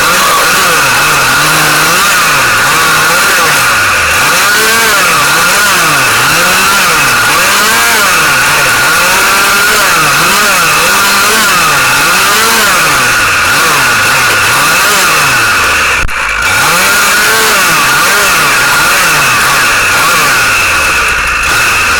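Two-stroke chainsaw running loud at high revs, its engine note falling and rising again and again as it is worked through wood, with a brief drop about three-quarters of the way through.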